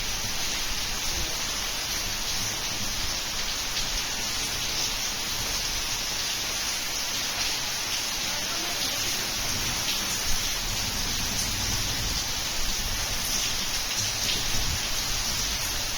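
Heavy rain falling steadily: an even hiss with faint scattered ticks of drops.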